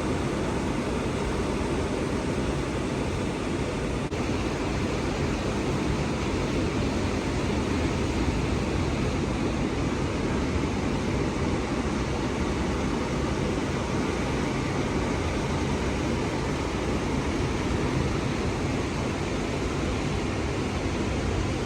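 Atlantic Ocean surf breaking on the beach, a steady rushing wash with no single wave standing out.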